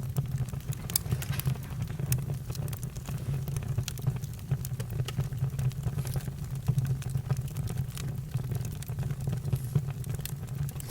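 Campfire crackling, with irregular sharp pops and snaps over a low, steady rumble of burning.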